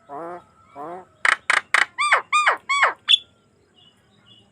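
Javan myna singing a varied phrase. It opens with two buzzy notes, then three harsh rasping notes, three loud ringing whistles that rise and fall, and a short high note about three seconds in.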